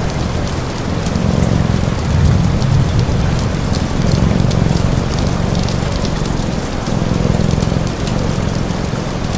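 Steady rain on a surface, mixed with a cat's purr that swells and fades in slow waves about every second and a half, and small crackles from a wood fire.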